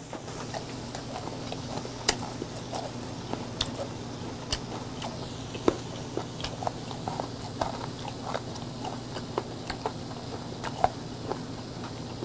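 A person chewing grilled fermented skate (hongeo) close to a clip-on microphone: wet mouth smacks and sharp clicks at an irregular pace, several a second, over a steady low hum.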